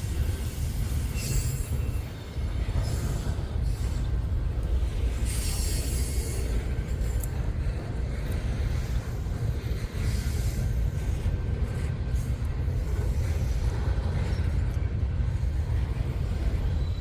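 Freight train rolling past: a steady low rumble with irregular bursts of higher rasping noise every few seconds.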